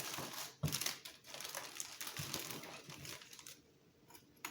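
Plastic packaging crinkling and rustling as small parts are unpacked and handled, with a sharp knock early on; the rustling dies away near the end.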